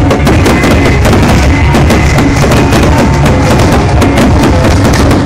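Fireworks bursting and crackling in quick succession, very loud, over music with a drumbeat.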